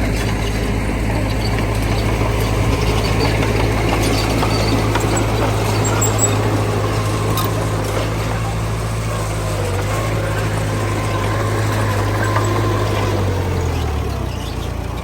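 Diesel engine of heavy earthmoving equipment running steadily, its low note shifting and wavering about two seconds before the end.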